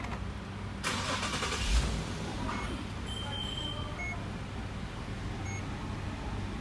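Infiniti car engine cranking for about a second and catching, then settling into a steady idle after its fresh oil change. A few short, high beeps sound during the idle.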